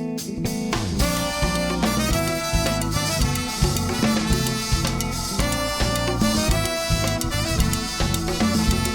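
Live groove band music: after a sparse guitar-led opening, the full band comes in about a second in, with drum kit, bass and a horn section of saxophone and trumpet playing a Latin-tinged, jazzy groove.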